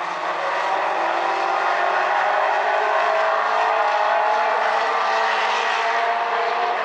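A pack of light race trucks running at speed around a short oval, many engines blending into one steady drone whose pitch climbs slowly as they pull down a straightaway.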